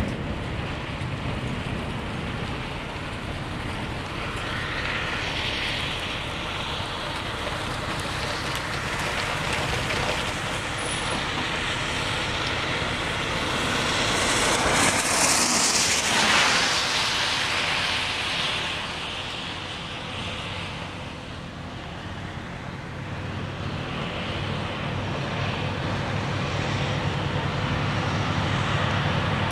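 Road traffic noise: a steady hiss of tyres and engines, with a vehicle swelling past about halfway through and a low rumble building again near the end.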